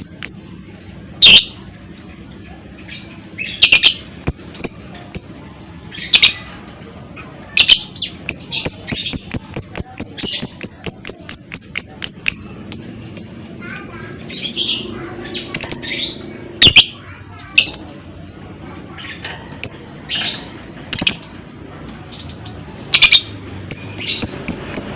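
Lovebirds chattering: fast runs of sharp, high chirps, the longest lasting about four seconds, broken up by harsher single screeches. These are the 'ngekek' chatter calls used as a lure to get other lovebirds calling.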